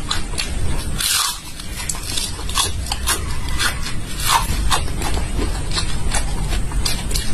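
Close-up chewing of raw garlic: a run of short, crisp crunches and mouth clicks as the cloves are bitten and chewed.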